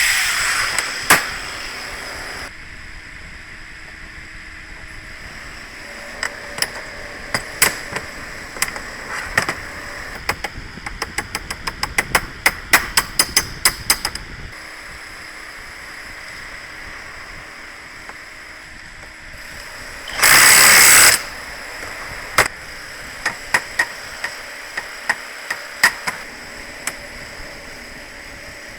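Workshop tool noise: a series of sharp metal taps and knocks, quickening to about four a second midway, and a loud burst of hissing lasting about a second about two-thirds of the way through.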